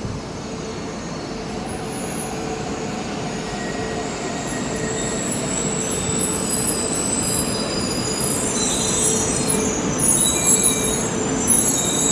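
Shinkansen train coming into the platform and braking. A steadily rising rumble carries high-pitched brake and wheel squeals that grow from about eight seconds in.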